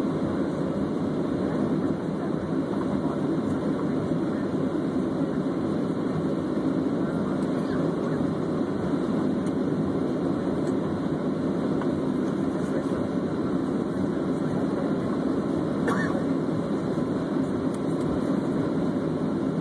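Steady jet engine and rushing-air noise heard inside an airliner's cabin, an even low roar with no change in level.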